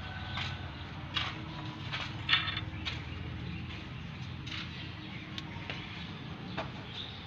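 Piaggio Ape City three-wheeler engine idling steadily after a timing chain replacement, with scattered short clicks and chirps over it.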